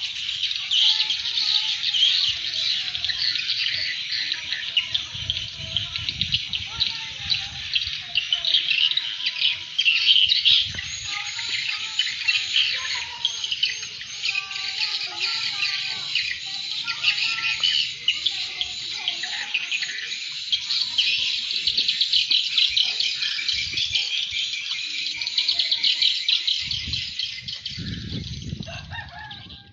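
Swiftlet call sound, a dense, continuous chatter of high, rapid twittering chirps, with scattered lower chirps among them. This is the kind of lure call that is played to attract swiftlets.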